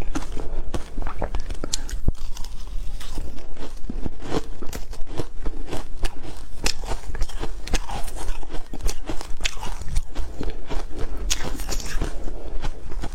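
Ice being bitten and chewed close to the microphone: dense, irregular crunching and cracking that keeps on throughout.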